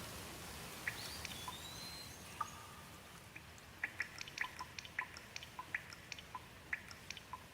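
Light rain hissing steadily, with a bird's short whistled call about a second in. From about four seconds, quick water drips tick in a dense, irregular run.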